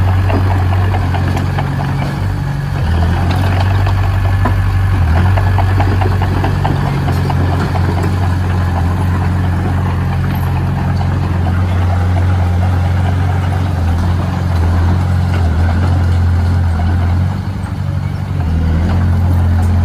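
Heavy diesel engine of construction machinery running steadily, its low note shifting a little, with a brief drop in loudness near the end.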